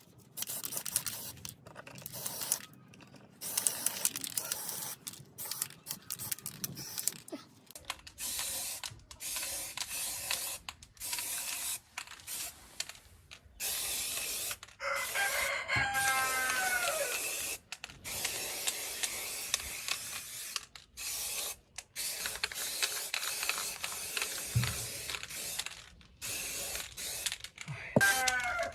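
Stop-start mechanical noise from hand work on old electric fan parts, with a rooster crowing twice in the background, about halfway through and again near the end.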